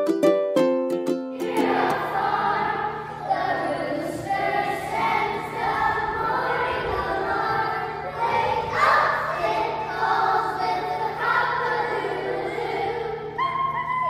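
A few plucked string notes, then a group of young children singing a song together in unison.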